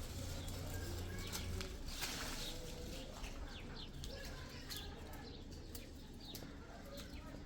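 Small birds chirping: a run of short, quick falling chirps, thickest in the second half, over a low background rumble.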